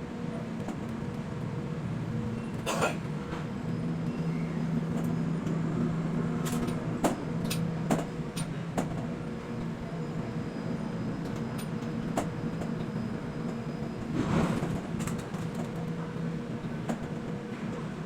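Container-port machinery running: a steady low drone with a few held tones, broken by a handful of sharp metallic clanks, a longer heavier one about 14 seconds in.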